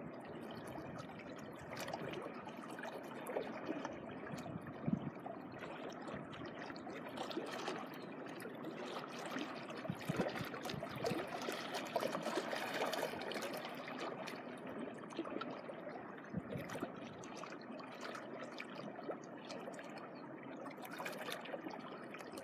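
Shallow sea water lapping and trickling at the shoreline, a steady faint wash with scattered small ticks.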